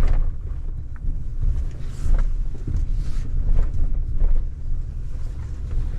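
Truck running at low speed as it pulls up, a steady low rumble with a few faint clicks.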